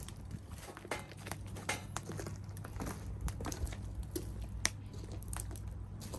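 Wood fire crackling in a tall fire stand, with firewood stood upright inside: irregular sharp pops and snaps as it burns well.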